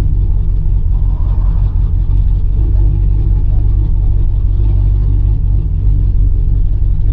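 Chevrolet Camaro ZL1's supercharged V8 running steadily under way, a deep continuous rumble with road noise.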